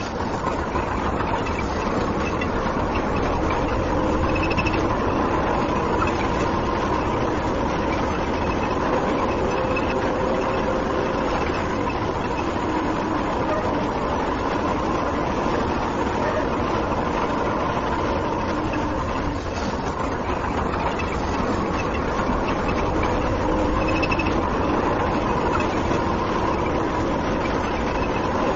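A tractor pulling a trailer, its engine running steadily with the even noise of the rig on the move.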